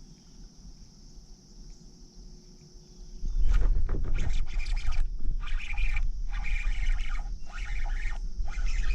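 Crickets trilling steadily. About three seconds in, a sudden loud splash starts a run of irregular splashing and rustling bursts, about two a second: a bass taking the topwater popper and thrashing as it is hooked.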